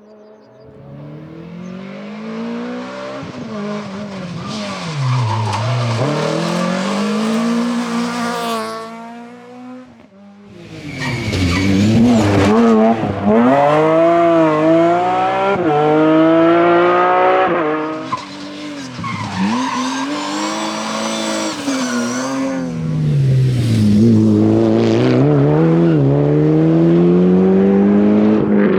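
Rally cars driven flat out past the spectators one after another, three passes in all: each engine revs high, drops sharply as the driver lifts and brakes, then climbs again through the gears.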